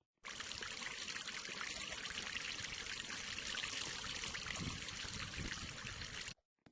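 Steady rush of running or pouring water that starts abruptly and cuts off abruptly about six seconds later.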